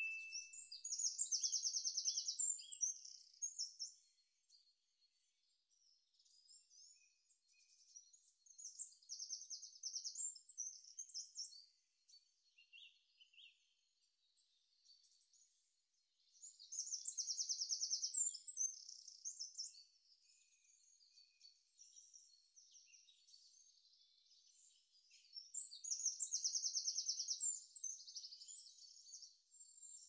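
Birdsong: a high, fast trilling phrase about three seconds long comes back roughly every eight seconds, with scattered chirps between. A short ding dies away at the very start.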